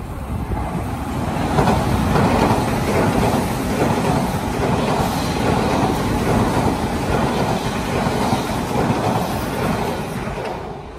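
Odakyu electric commuter train passing through the station on the adjacent track without stopping. Its wheels and running gear make a steady rumble that builds about a second and a half in and dies away near the end.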